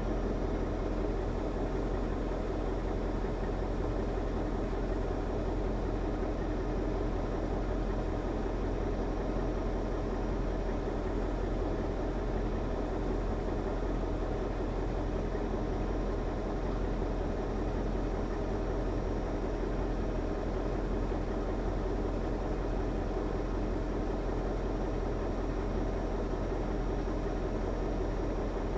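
KamAZ truck's diesel engine running steadily at an even speed, with no revving or knocks.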